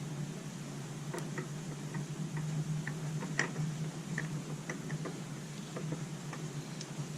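Irregular light clicks and taps of hands handling small metal parts, likely while fitting and threading the scooter's oil filter by hand, over a steady low hum.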